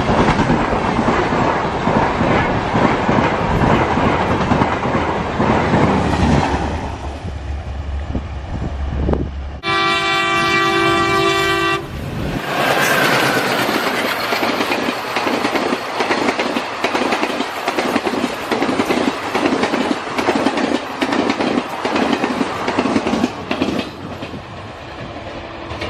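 A passenger train running on rails with a heavy rumble. About ten seconds in its horn sounds once for about two seconds. The rest is a rapid clickety-clack of wheels passing over rail joints.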